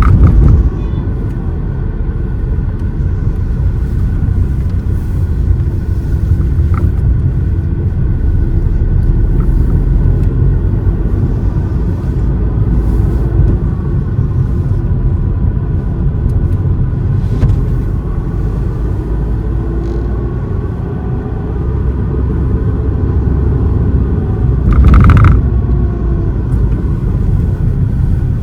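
Car driving along a road: a steady low rumble of engine and tyres, with a faint gliding whine and a brief louder swell near the end.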